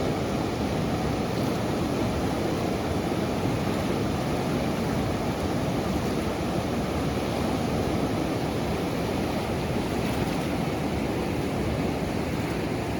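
Steady rush of river water pouring over the Red River's low rock-riffle dam.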